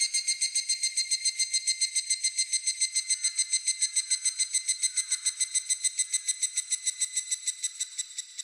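Higurashi (evening cicada) calling: a long, fast run of high ringing pulses, about seven a second, that stops near the end.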